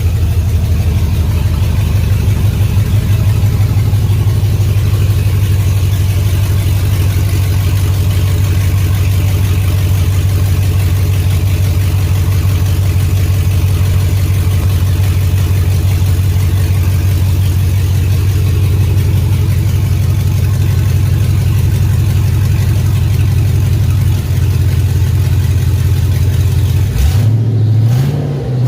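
2003 GMC Yukon Denali's 6.0-litre V8 running with no exhaust fitted, idling steadily with an open, throaty note. The pitch steps up briefly near the end.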